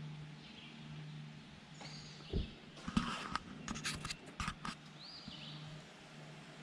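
Woodland birds calling with short arched whistled notes. A quick run of sharp clicks and knocks from about two to five seconds in, over a low steady hum.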